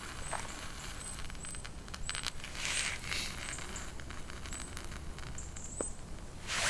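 Footsteps crunching through crisp, frozen snow, with a few louder crunches about three seconds in and at the end, over a low steady rumble.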